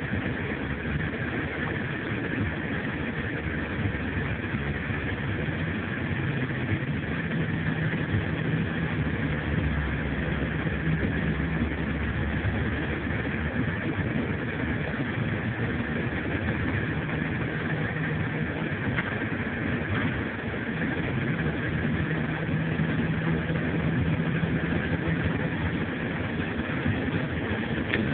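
A car's engine and road noise, heard from inside the vehicle while driving, with a steady hum that swells and eases a few times.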